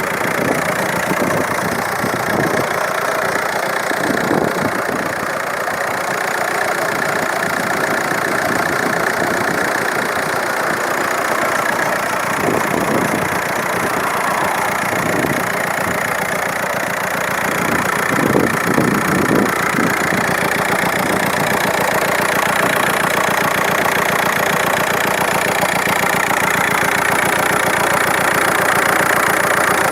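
Audi A4 B6 TDI turbodiesel engine running steadily at idle, with an odd noise in it that the owner cannot place.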